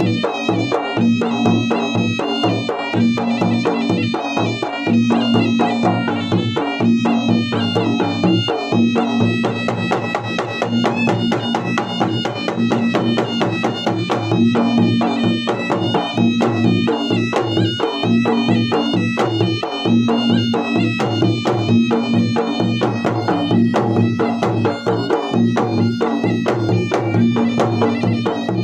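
Makassarese gendang drums played for a wedding: fast, dense, unbroken drumming with a wavering pitched melody line over it.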